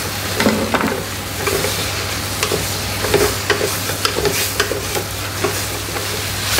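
Chunks of beef shank sizzling in hot oil with sautéed shallots, garlic and green chilli, stirred with a spatula that scrapes the pan in repeated strokes about twice a second.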